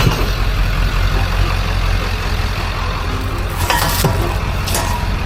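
Steady low rumble of a running motor-vehicle engine, with a few short knocks about three and a half and four and a half seconds in.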